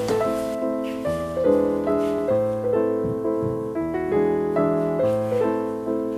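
Background piano music: a calm melody of sustained notes over chords.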